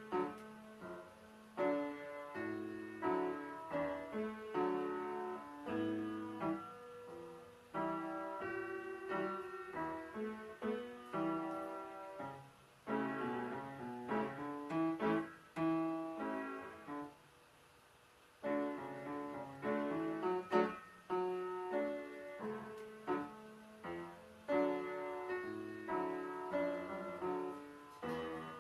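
1950s Everett piano being played, a run of notes with a short pause a little past halfway. The piano is out of tune and in need of tuning.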